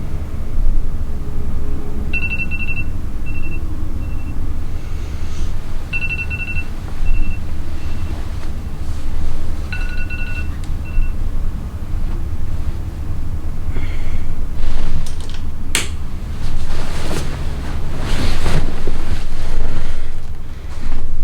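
An electronic beep pattern, a short held tone then a few quick pips, sounds three times about four seconds apart over a steady low rumble. Some clicks and knocks follow near the end.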